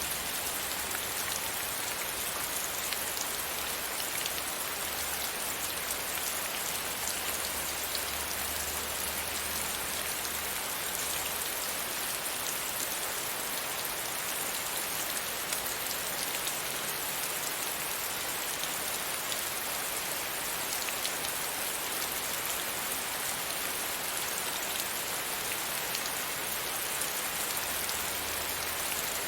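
Steady rain pattering against a window pane, with many small drop taps over a constant hiss and a faint low rumble that comes and goes.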